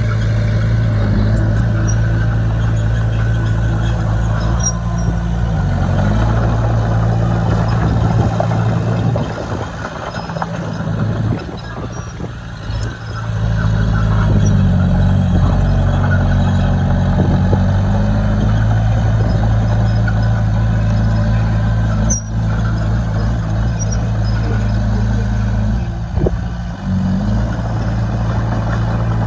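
Heavy construction-machine diesel engine running at working speed, its note dipping briefly several times and easing off for a few seconds in the middle. There is one sharp click about two-thirds of the way through.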